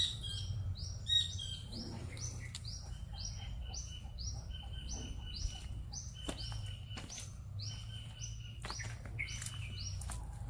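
Collared kingfisher calling a long, even series of short, high notes, about two a second, over a low background rumble.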